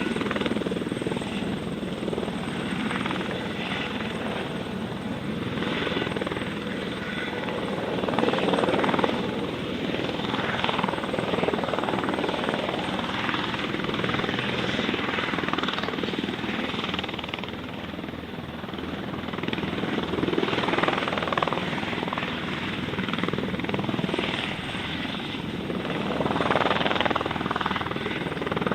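Aircraft engine noise from a light aircraft at an airfield, running continuously and swelling and easing slightly in loudness.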